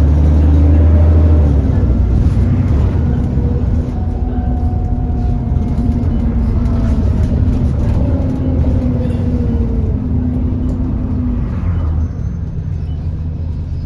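Alexander Dennis Enviro400 double-decker bus running, its low engine note under a loud whine that drifts up and down in pitch: the 'hoover'. The engine note eases off near the end.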